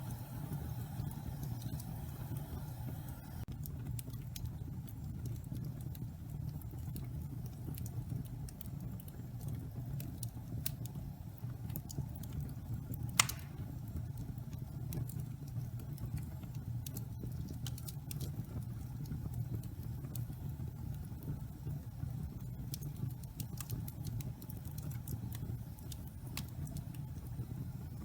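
Wood fire of damp pine logs burning in a fireplace: a steady low rumble of flame with sparse crackles, and one loud pop about halfway through.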